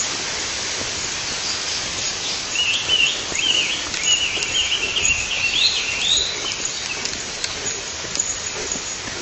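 A small bird sings a twittering, warbling phrase for about four seconds, starting two and a half seconds in, over a steady rushing hiss of water.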